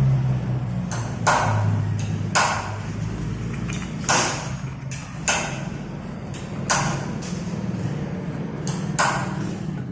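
A series of short, sharp strokes, about one every second or two, over a steady low hum.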